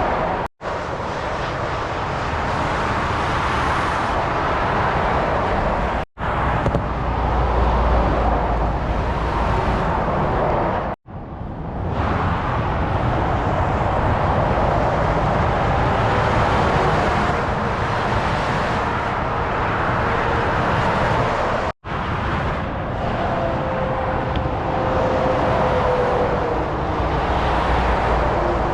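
Heavy motorway traffic: a steady rush of lorries and cars passing at speed, with a deep rumble from a passing truck several seconds in. The sound cuts out abruptly for an instant four times where separate recordings are joined.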